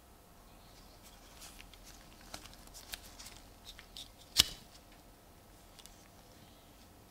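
A restored sailor's pocket knife handled up close: light clicks and scrapes, then one sharp, loud click about four and a half seconds in, like a blade snapping into place on its backspring.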